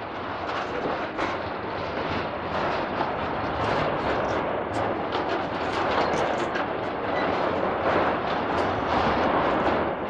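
DB class 294 diesel-hydraulic shunting locomotive passing close by, hauling a freight train of car-transporter wagons: a steady rumble of engine and wheels on the rails, with scattered clicks from the wheels running over the track.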